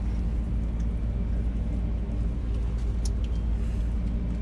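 A steady low mechanical hum from a running motor or machine, with a few light clicks about three seconds in.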